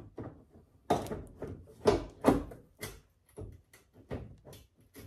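Headlight assembly being handled and fitted into place: a string of irregular hard knocks and clunks, the loudest two or three about two seconds in.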